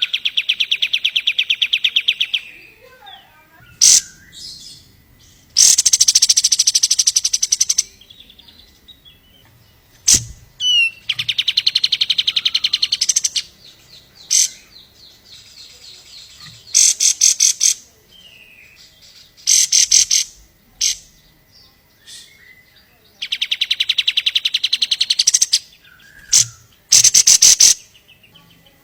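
Kapas tembak bird singing: repeated loud, very fast trills, each lasting one to two seconds, with short chirps in the gaps between them.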